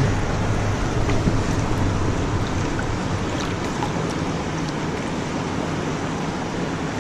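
Steady rush of river water pouring below a dam.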